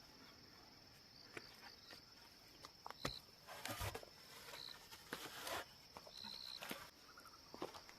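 Faint scattered knocks, clicks and rustling bursts over a steady, high-pitched insect drone, with a few short high chirps.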